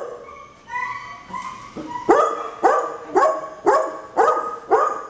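Dog barking in a kennel, a quick run of six barks about two a second, after a second or so of higher pitched whining.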